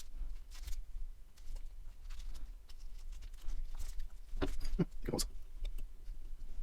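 Light clicks and taps of small phone parts being handled and fitted on a work surface, with a louder cluster about four to five seconds in, over a low steady hum.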